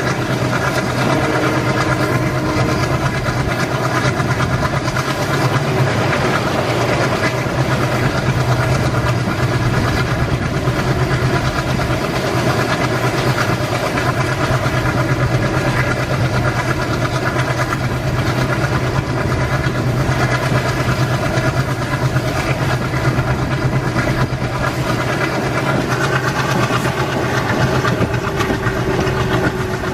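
Train locomotive running steadily in place: an even, unchanging engine hum with a strong low drone.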